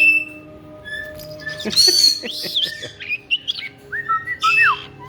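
Caique parrots calling: a sharp shriek at the start, a cluster of loud chirps and squeaky gliding calls about two seconds in, then a whistled note that rises, holds level and falls near the end, over a faint steady hum.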